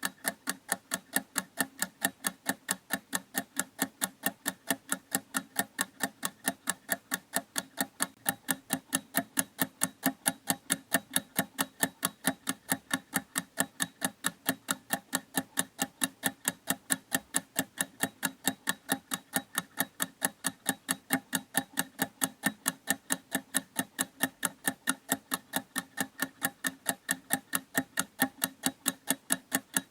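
Clock ticking in a steady, even rhythm, each tick a short, sharp click.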